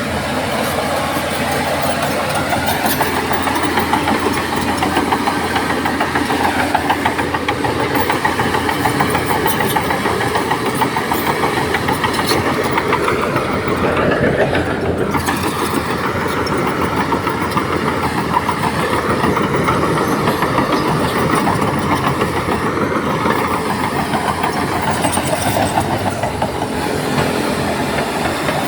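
Heavy diesel earthmoving machinery running steadily under load, with a dense rapid clatter. The engine note shifts about halfway through.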